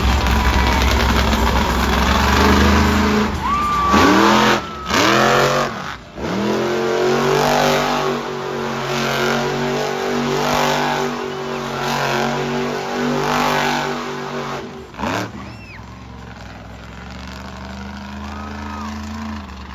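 Monster truck engine revving hard: sharp rev-ups and drops about four to six seconds in, then held at high revs for several seconds before falling off suddenly about fifteen seconds in and running lower.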